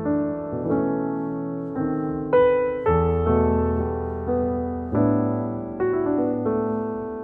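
Background piano music, slow notes and chords each struck and left to fade.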